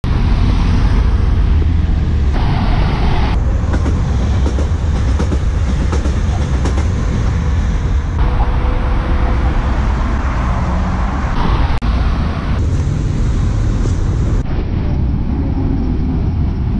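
Electric trains passing close by, a steady rumble of wheels on rails, with the sound changing abruptly at several cuts between clips.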